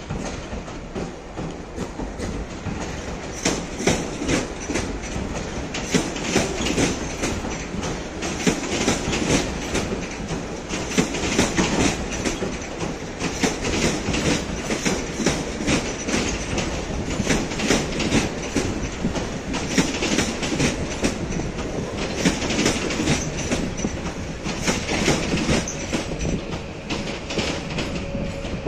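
Electric multiple-unit trains running through the station at low speed, their wheels clicking and clattering irregularly over the rail joints and points. A steady whine comes in near the end.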